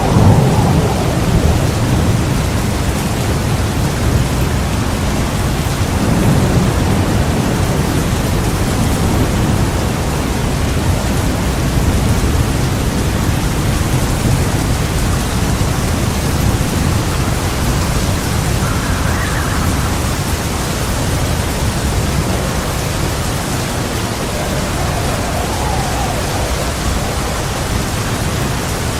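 Heavy rain pouring steadily with thunder rumbling, the rumble heaviest at the start and again about six seconds in.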